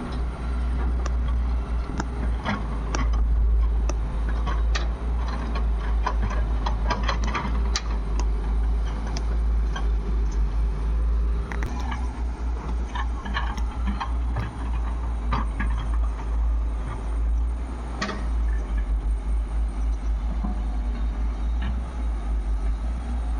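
Heavy diesel engines running steadily with a deep pulsing rumble, from a backhoe loader at work loading mud beside tractors, with many scattered short knocks and clanks throughout.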